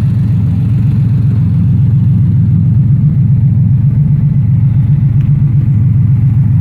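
1986 Porsche Carrera 3.2's air-cooled flat-six idling steadily through a Bisimoto exhaust with the silencer removed, almost a straight pipe, giving a loud, even, low-pitched exhaust note.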